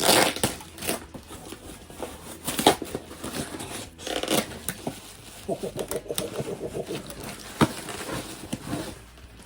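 A package being cut open with a knife and handled: scattered scrapes, clicks and crinkling of packaging.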